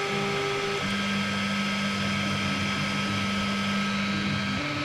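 XVICO X3S 3D printer running: its stepper motors whine in steady tones that jump to a new pitch a little under a second in and again near the end, over the constant hum of its fan.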